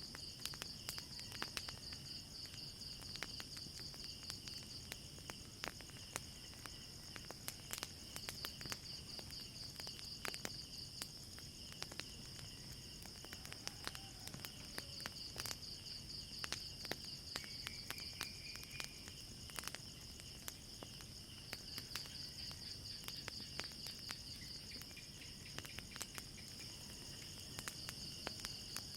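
Crickets chirping in a steady, pulsing high trill, with frequent sharp crackles and pops from a burning wood fire scattered throughout.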